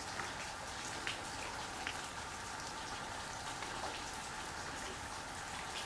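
Light sprinkling rain falling, a steady soft hiss with a few scattered drop ticks.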